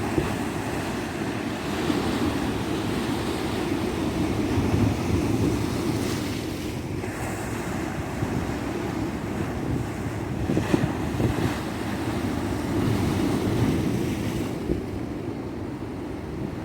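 Surf on a tropical beach: waves breaking and washing in, swelling and easing over several seconds, with wind rumbling on the microphone.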